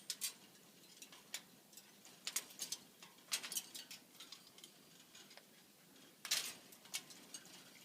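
A cockatoo picking at its cage's metal lock with its beak: irregular sharp clicks and small rattles, with a few louder clusters.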